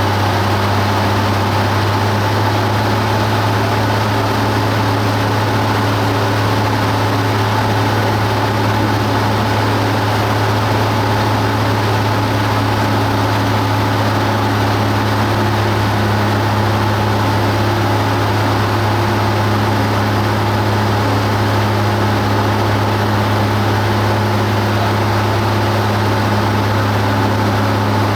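Cessna 172 Skyhawk's piston engine and propeller running at a constant power setting: a loud, steady drone with a strong low hum and no change in pitch.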